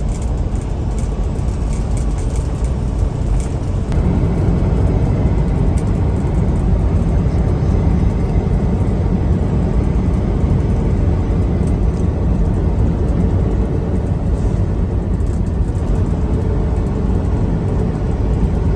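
Semi truck driving at highway speed: a steady drone of engine and road rumble that gets slightly louder about four seconds in.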